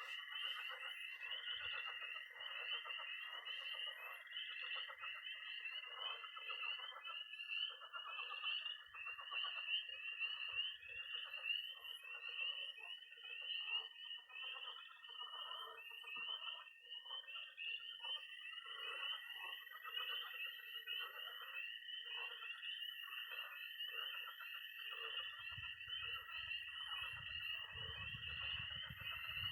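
Early-spring night chorus of frogs and toads: a dense mass of high, rapid peeps from spring peepers, a long steady high trill from toads that fades out for a while and comes back, and lower croaking from pond frogs. A low rumble comes in near the end.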